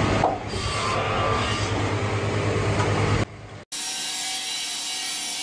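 Sawmill saw cutting through timber, a steady sawing noise with a low hum. About three and a half seconds in it cuts off abruptly into another stretch of steady sawing.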